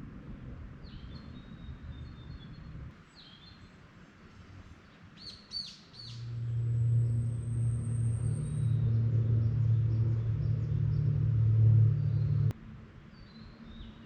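Small birds chirping in short calls, with a low steady rumble coming in about six seconds in that is the loudest sound and cuts off abruptly a few seconds later.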